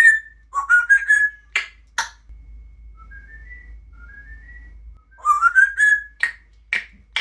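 Grey parrot whistling: short rising whistles in a cluster at the start and again about five seconds in, broken by sharp clicks. In the quieter middle stretch a faint series of short rising tones sounds.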